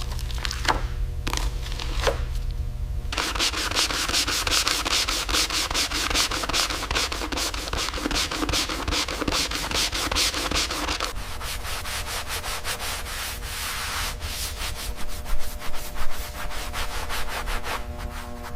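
Sanding. A few separate strokes, then from about three seconds in a fast, dense run of back-and-forth strokes that thins out to lighter, sparser strokes for the last part, over a steady low hum.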